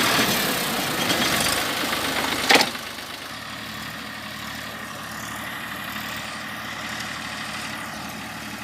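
Massey Ferguson 241 DI tractor's three-cylinder diesel engine running steadily while it pulls a 7-foot rotavator, without labouring. Louder for the first two and a half seconds, then a sharp knock and the sound drops to a quieter, steady hum.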